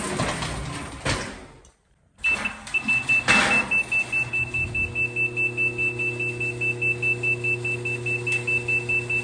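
Rapid electronic warning beeping, about three beeps a second, over a steady engine hum. It starts about two seconds in, after a short noisy stretch.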